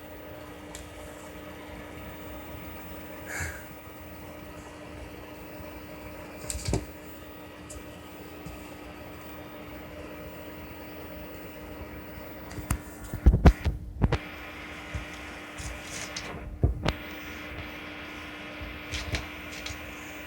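Steady low hum with scattered knocks and bumps, loudest in a quick cluster about thirteen seconds in.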